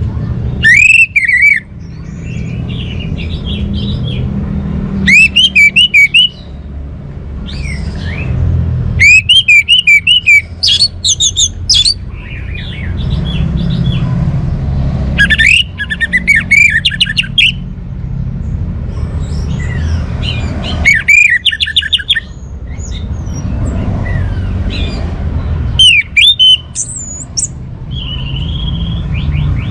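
Orange-headed thrush (anis merah) singing: loud phrases of sliding whistled notes mixed with rapid high chatter, repeated about every four to five seconds, over a steady low hum.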